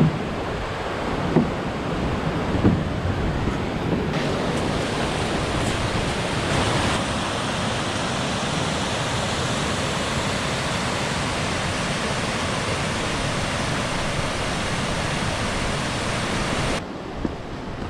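Rushing mountain-stream water, a loud even rush, with a few soft knocks in the first few seconds; the rush drops abruptly in level just before the end.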